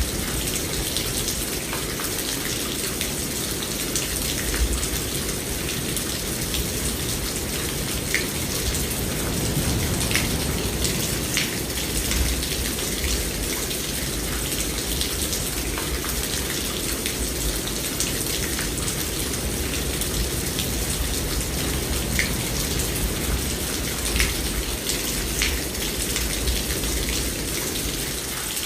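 Steady heavy rainfall with individual close drops ticking now and then, over a constant low rumble.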